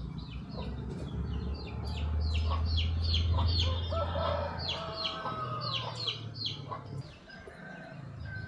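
Chickens calling, with a rapid run of short, high peeping chirps throughout and a longer call a few seconds in, over a low rumble.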